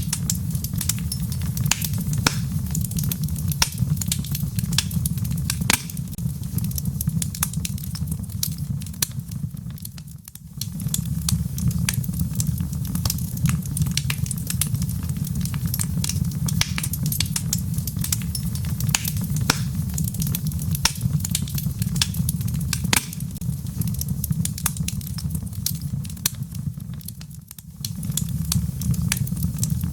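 Wood fire crackling in a fireplace, with many sharp pops and snaps over a steady low rumble and the patter of rain. The sound dips briefly twice, about ten seconds in and again near the end.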